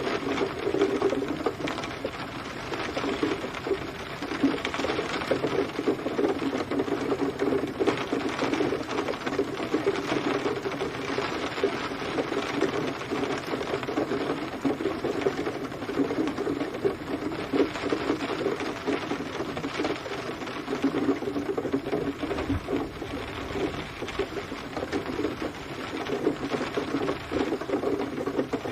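Steady rain, a dense, fast patter of many drops hitting a surface, holding an even level throughout.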